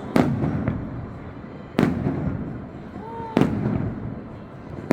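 Fireworks bursting overhead: three sharp bangs about one and a half seconds apart, each trailing off in a rolling echo, with a fourth bang right at the end.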